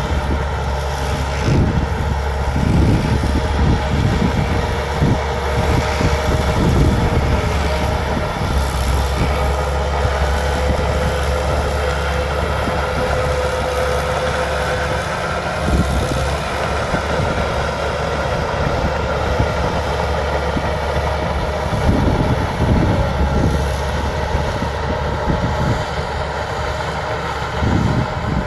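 Bulldozer's diesel engine running steadily while it works the ground, with a few brief low surges in the rumble.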